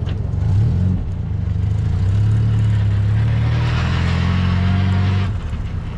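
1275cc MG Midget's four-cylinder engine pulling on the road, its note climbing about a second in and then holding steady, with rushing wind building up. The engine note and wind drop away shortly before the end.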